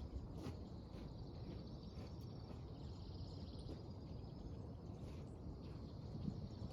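Outdoor ambience: a steady, high, pulsing insect chirring over a low background rumble, with a few faint ticks.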